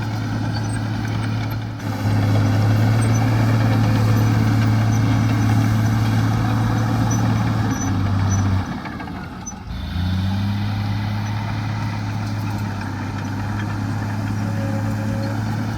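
Heavy diesel engine of earthmoving machinery running steadily. It gets louder about two seconds in, dips briefly past the middle, and picks back up with a short rise in pitch.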